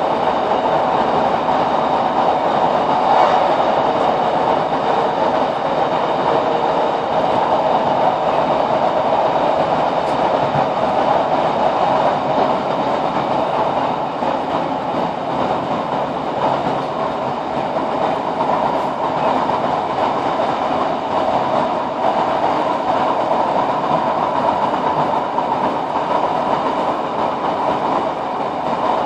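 Inside a Class 156 Sprinter diesel multiple unit running at speed: a steady drone of the underfloor Cummins diesel engine mixed with wheel-on-rail running noise.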